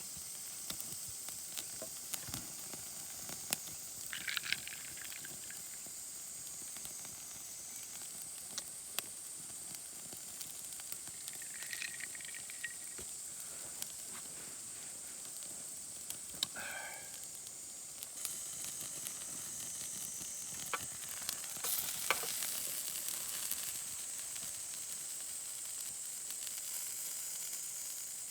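A steady high-pitched insect drone with scattered sharp crackles, like a wood campfire popping, and a few brief chirps.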